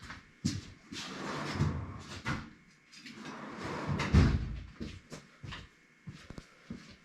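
A box being worked open by hand: scraping, rustling and a run of knocks and taps, with the loudest, deepest thump about four seconds in.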